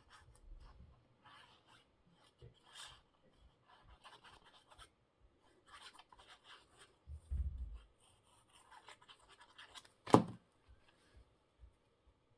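Paper scraps rustling and rubbing against a work surface as they are glued down, in short scattered scratches. A dull thump comes about seven and a half seconds in, and a sharp knock, the loudest sound, about ten seconds in.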